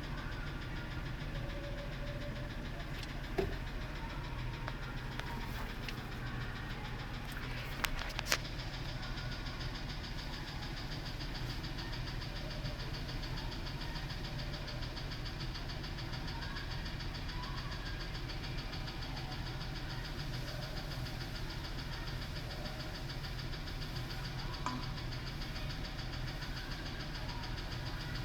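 A 2000 Ford F-150 engine idles steadily with a rhythmic knock. The mechanic suspects valve-train damage, such as a broken rocker, and says the noise is getting louder and louder. A few sharp clicks come about 3 and 8 seconds in.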